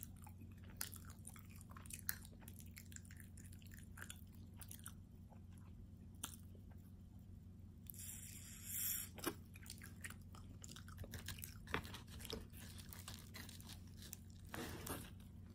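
A person chewing a calzone close to the microphone, soft and with many small mouth clicks, and a short louder hiss about eight seconds in. Near the end, fingers pick at the crust with small crackles.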